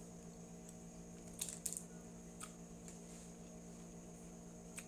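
Faint wet mouth clicks and smacks of someone chewing a sticky mochi rice cake, a small cluster about one and a half seconds in, another a second later and one near the end, over a steady low hum.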